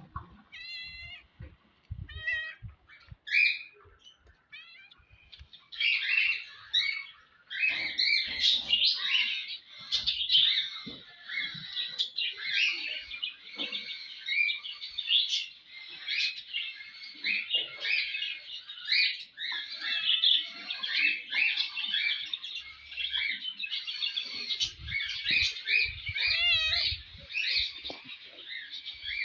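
Hagoromo (frilled) budgerigars chattering and warbling: a few scattered chirps at first, then a dense, continuous warble from about six seconds in.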